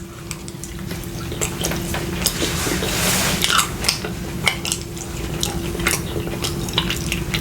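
Close-up eating sounds: chewing and wet mouth noises, with irregular short clicks of cutlery against a plate.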